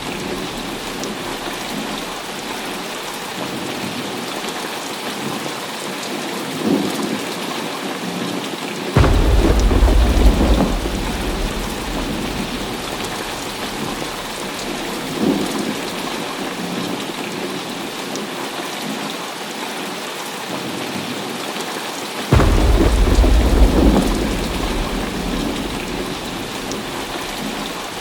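Heavy rain falling steadily through a thunderstorm. Thunder breaks in suddenly twice, about nine and twenty-two seconds in, each clap rumbling for a couple of seconds before fading, with fainter rumbles in between.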